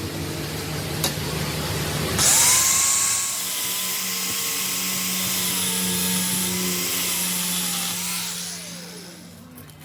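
A high-speed power tool's motor running with a high-pitched whine. It speeds up with a loud rush about two seconds in, holds steady, then winds down in falling pitch near the end.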